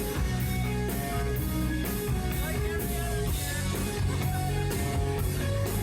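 Live hard rock band playing: electric guitar and drum kit, with a steady beat of cymbal and snare hits about twice a second.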